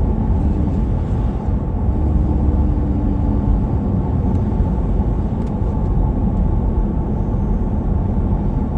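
Steady low rumble of a vehicle on the move, engine and road noise heard from inside the cab.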